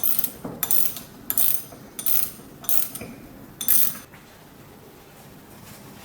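Metal gear mechanism of an antique hand-crank grinder clicking in about six short bursts, roughly two-thirds of a second apart, stopping about four seconds in.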